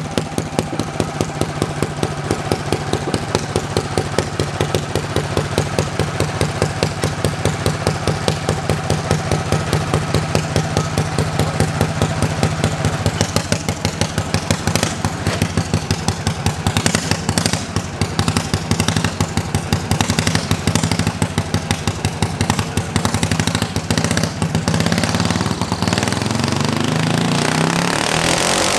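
John Deere garden tractor engine running, with a steady even pulse of about three beats a second. Near the end the pulsing gives way to a smoother sound and the engine note rises.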